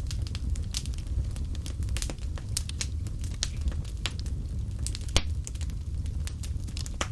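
Fire crackling in a fireplace: irregular snaps and pops over a steady low rumble of flames, with one louder pop about five seconds in.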